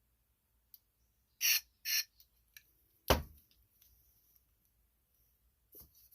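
Two short hissing bursts of aerosol carburetor cleaner sprayed through the jets of a carburetor bowl, then a single sharp knock, with a few light clicks of handling around it.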